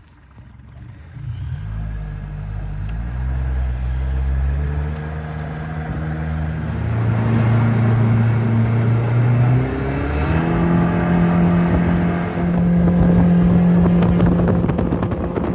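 Jet boat engine accelerating across the water, its pitch climbing in steps, dropping back about ten seconds in and climbing again, then falling away near the end.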